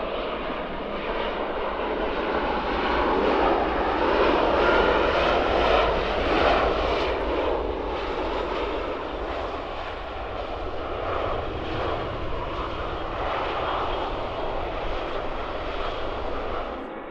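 Jet airliner's engines as it passes close by, swelling to loudest about five seconds in and then easing to a steady rumble.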